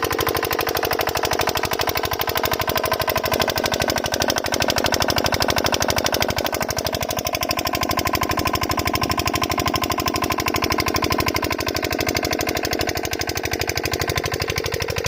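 8 HP diesel engine of a water pump running steadily, a fast, even string of firing knocks.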